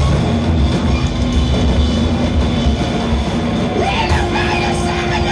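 Live rock band playing loud, dense, noisy music with drums, bass and electric guitars, under held steady notes; about four seconds in, a wavering higher line comes in over the top.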